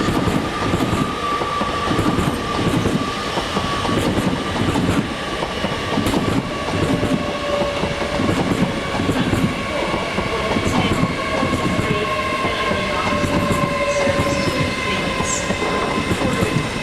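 A train running past on the rails, its wheels clattering with sharp clicks over the track, with steady whining tones over a continuous rumble.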